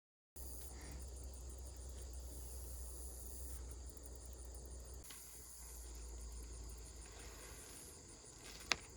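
Steady high-pitched chirring of insects such as crickets, with a low rumble underneath, after a brief silence at the very start. A single sharp click sounds near the end.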